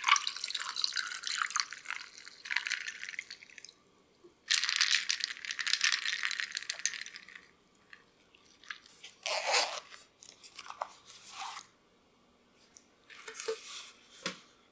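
Kitchen handling noises in several separate bursts, the two longest in the first half at about three seconds each, then a few shorter ones.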